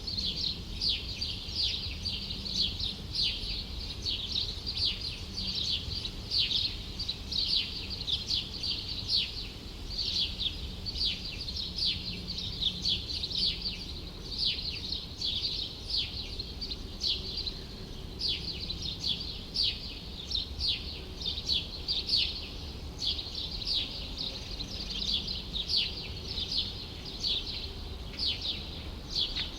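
Small birds chirping continuously, many short, quick, falling chirps a second, over the steady low hum of city traffic.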